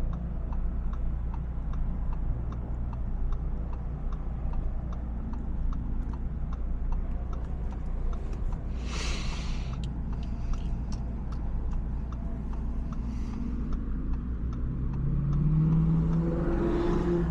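Audi S5 engine and road noise heard from inside the cabin: a steady low hum with a light, regular ticking. There is a brief rush of noise about nine seconds in, and near the end the engine note rises as it revs up.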